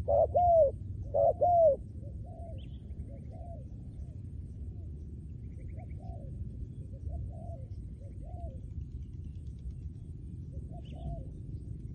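Spotted dove cooing: two pairs of loud coos in the first two seconds, then fainter coos repeating every second or so through the rest, over a steady low background rumble.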